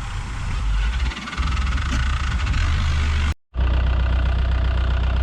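Farm tractor engine running steadily, growing louder about a second in. It breaks off briefly a little over three seconds in, then carries on.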